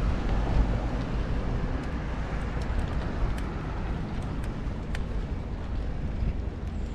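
Steady low rumble with an even hiss, the sound of wind on the microphone and road noise while cycling.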